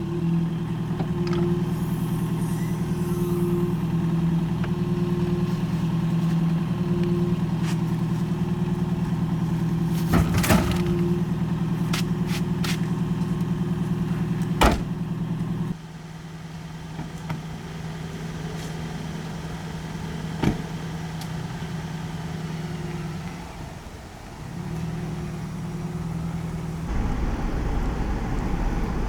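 An engine running steadily with a droning hum and a few sharp knocks. It drops sharply in level about halfway through, briefly dies away and comes back, then gives way to a low rumble near the end.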